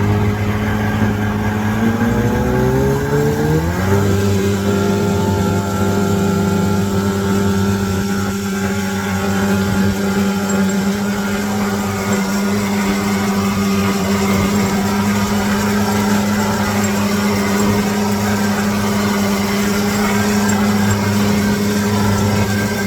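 Twin two-stroke jet outboard motors on a jon boat opening up: the engine pitch rises over a couple of seconds, starting about two seconds in, then holds steady at speed.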